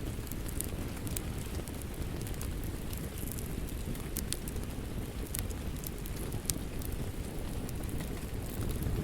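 Wood fire crackling in a fireplace: a steady low rumble of the flames with sharp pops and snaps at irregular moments, one louder pop about two-thirds of the way through.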